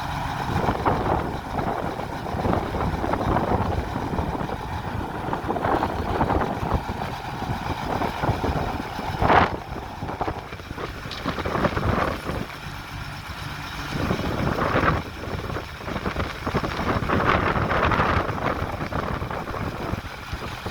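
Heavy construction machinery, an excavator and dump truck, running with diesel engines, with louder surges now and then and wind buffeting the microphone.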